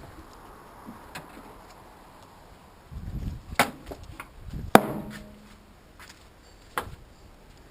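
A series of sharp knocks and clanks of tools or parts being handled, loudest about two-thirds of the way through with a short ring after it, and a low rumble around the middle hits.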